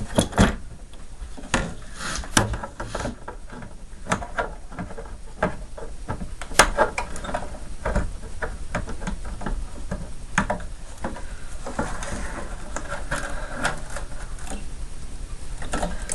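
Irregular clicks, taps and light rattles of plastic connectors and wires being handled and unplugged from the mini fridge's circuit board.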